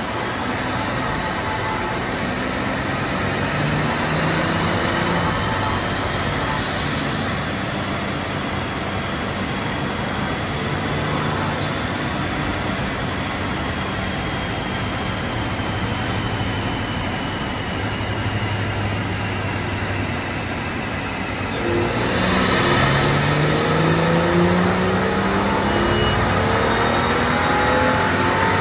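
BMW 640i's turbocharged N55 inline-six running on a chassis dyno, its note stepping up and drifting through the gears. About 22 seconds in it gets louder and the engine note climbs steadily as the power pull begins.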